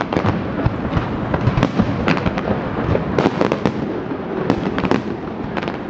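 Fireworks display: a steady barrage of bangs and crackling bursts, many a second, over a continuous rumble.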